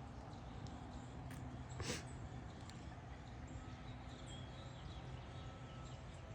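A dog making one short, breathy sound about two seconds in, over steady low background noise.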